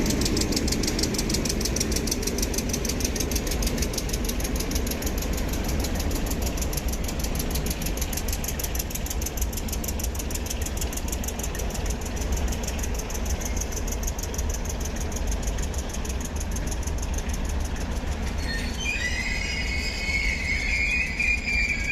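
Train running along the track with a steady low rumble. About nineteen seconds in, a high, wavering wheel squeal sets in.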